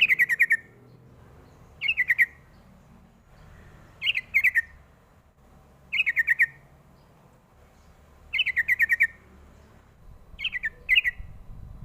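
Young yellow-vented bulbul (trucukan) singing: six short bubbling phrases, each a quick run of five or six falling notes, repeated about every two seconds, with the last phrase split in two.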